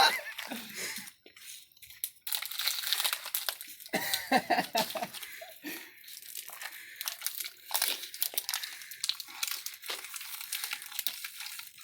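Plastic water bottle crinkling and crackling in irregular bursts as it is squeezed while someone downs the water in one go.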